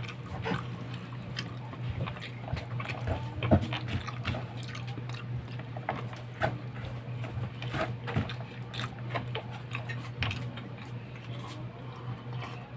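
Close-up eating sounds of a person eating rice by hand: wet chewing and lip smacks, with many small irregular clicks, over a steady low hum.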